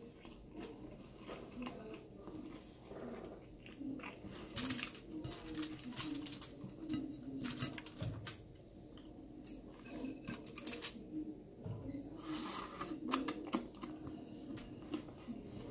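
Close-up wet chewing and mouth smacks from a person eating a soft vegetable taco, a scatter of small irregular clicks. Near the end comes a quicker run of sharper smacks as fingers are licked.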